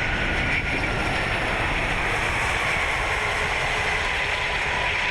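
Steady rushing and rumbling noise in an Airbus A380-800 cockpit at touchdown and the start of the landing roll, with a faint whine that slowly falls in pitch.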